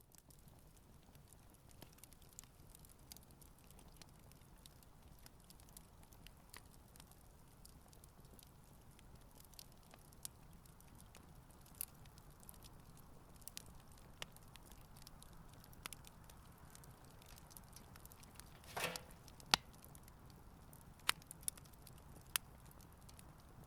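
Wood campfire burning quietly, with sparse sharp pops and crackles over a faint steady background. A short hiss comes about nineteen seconds in, followed by a few of the loudest pops.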